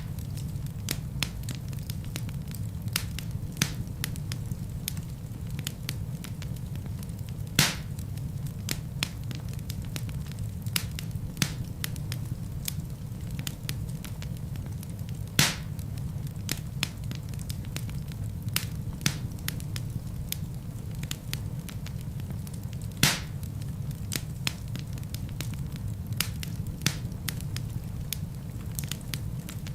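Wood fire crackling: a steady low rumble of flame under frequent small crackles, with three louder pops about eight seconds apart.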